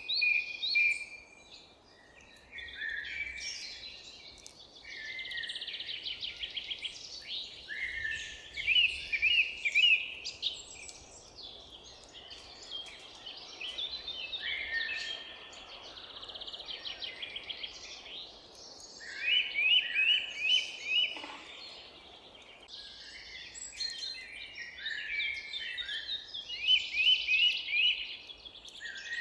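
Several songbirds singing and chirping at once: overlapping high chirps and quick repeated trills, some phrases louder than others, over a faint steady hiss.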